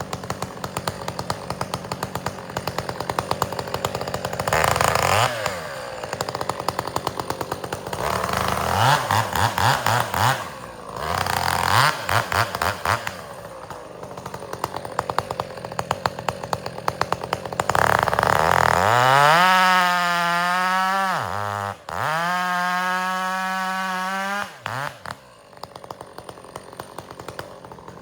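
Chainsaw bucking firewood. It idles, is revved in short bursts a few times, then is held at high revs for about six seconds with a brief dip in the middle before dropping back to idle.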